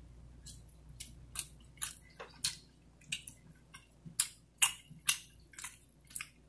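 Close-miked chewing of a mouthful of pizza: wet mouth smacks and clicks, about two a second.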